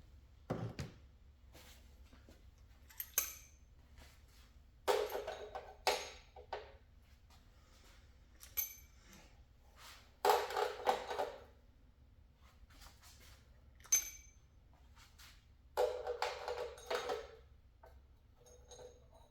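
Loose metal valvetrain parts, rocker arms and pushrods, clinking and clattering as they are handled and set into a parts tray. There are short ringing clatters about five, ten and sixteen seconds in, with single sharp metallic tings between them.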